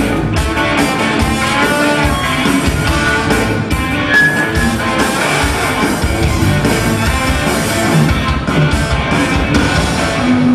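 Live punk band playing loud, with electric guitar and drums. The music cuts off at the very end.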